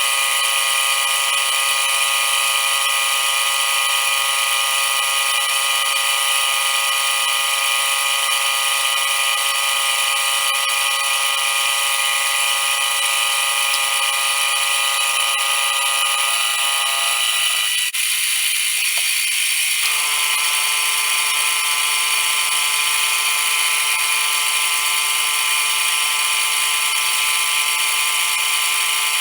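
Metal lathe running with the cutting tool turning down a hex bar, a steady high-pitched machining whine. The cut is noisy while the tool is still knocking the corners off the hex. About 18 seconds in the sound breaks briefly, then settles into a slightly different steady tone.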